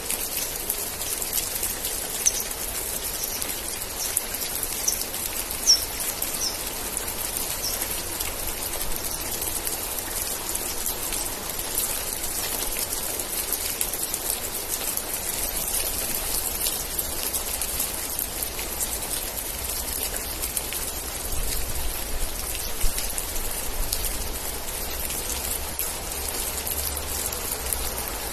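Steady rain falling, an even hiss of drops. A run of about eight short high chirps sounds a couple of seconds in, and a faint low rumble lies underneath in the second half.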